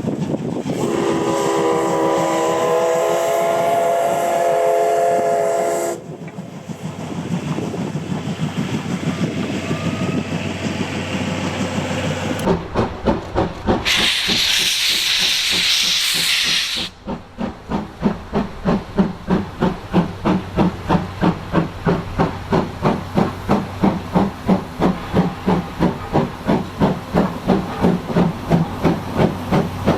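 C11 steam locomotive sounding a long chime-like whistle for about five seconds, then working hard with a steady chuffing exhaust of roughly two to three beats a second. A loud burst of hissing steam comes near the middle.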